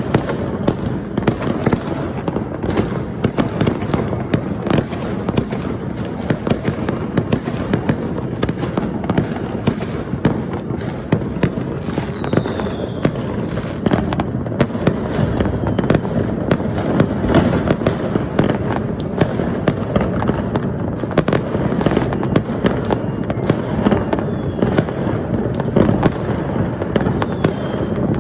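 Dense fireworks and firecrackers going off continuously, a crackling barrage of overlapping bangs with no pause, with a faint whistle of a rocket now and then.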